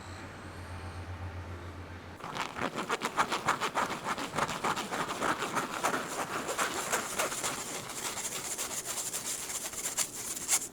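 Rapid, rhythmic scraping and rubbing strokes that start about two seconds in and stop just before the end, preceded by a low steady hum.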